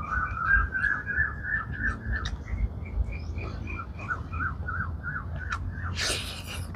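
A bird calling a rapid run of short repeated notes, about four or five a second, with a short burst of hiss-like noise near the end.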